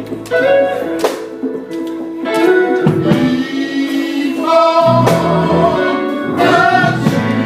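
Live gospel music: guitar playing with voices singing over it, and a few sharp percussive hits.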